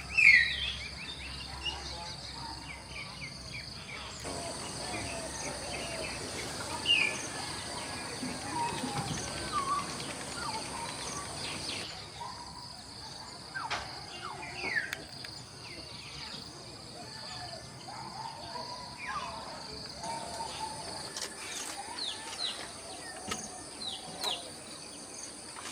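Several wild birds chirping and calling in short whistled notes, over a steady high drone of insects. The loudest call comes right at the start.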